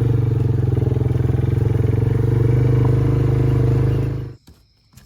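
An engine idling steadily with an even pulse, then switched off, cutting out abruptly about four seconds in.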